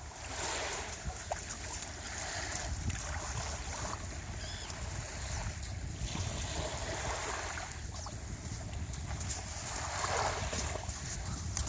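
Sea surf washing in and out, swelling and fading every few seconds, with wind buffeting the microphone in a low rumble.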